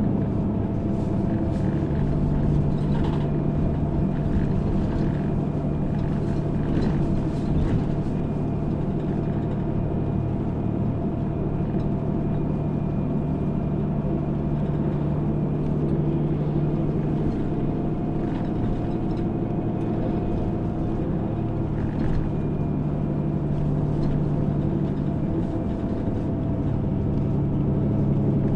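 Route bus driving along, heard from inside the passenger cabin: a steady engine hum with road noise and a few light rattles. The engine note eases briefly about four seconds before the end, then picks up again.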